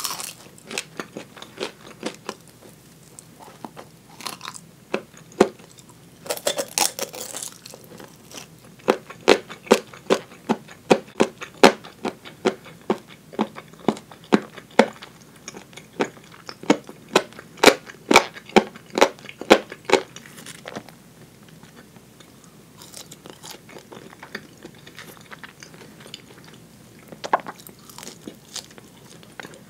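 Close-miked chewing of fried chicken: the crisp coating crunches and crackles in many quick, sharp clicks, thickest in the middle stretch and softer toward the end.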